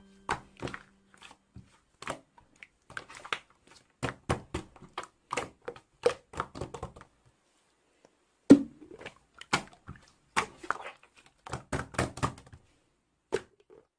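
Slime being handled: irregular small clicks and pops in uneven clusters, with a sharper pop about eight and a half seconds in.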